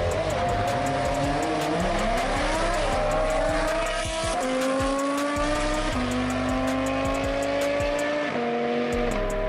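A performance car's engine accelerating hard through the gears. Its pitch climbs, drops sharply at each of three upshifts, then climbs again.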